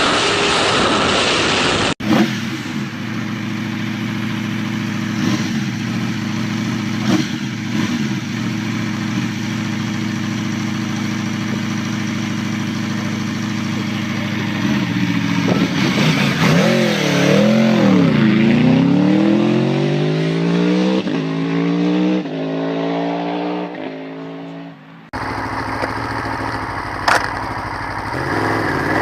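High-performance motorcycle engine running steadily at speed, then revving hard through the gears, its pitch climbing in repeated rising sweeps. Abrupt cuts between clips at about two seconds in and near the end.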